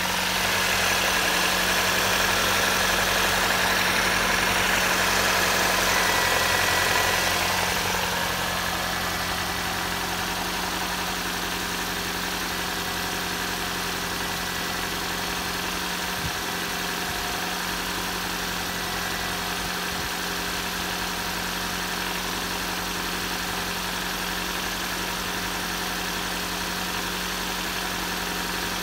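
Nissan March's CR12 1.2-litre four-cylinder petrol engine idling steadily at an even speed, somewhat louder for about the first seven seconds and then settling to a constant level.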